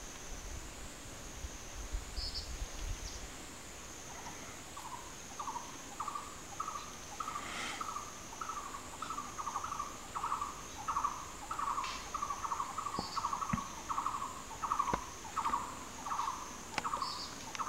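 A bird repeats a short call about twice a second, starting about four seconds in and going on to the end, over an insect's steady high-pitched trill that wavers evenly up and down. A few brief high chirps come in now and then.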